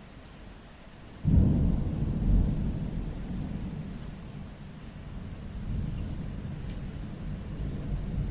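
Rain falling steadily, then about a second in a sudden clap of thunder breaks in and rolls on as a long low rumble, swelling again near the end.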